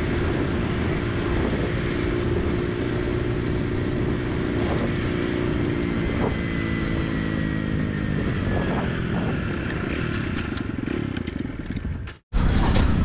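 Motorcycle engine running while riding, over a steady rushing noise; its pitch falls about halfway through as the bike slows. The sound cuts off abruptly near the end.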